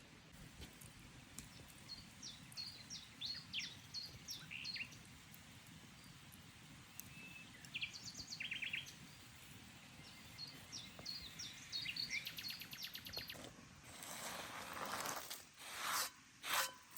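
Small birds chirping and twittering in short repeated phrases over a low steady outdoor background. In the last few seconds a broad rustling, hissing noise comes in, with two louder bursts near the end.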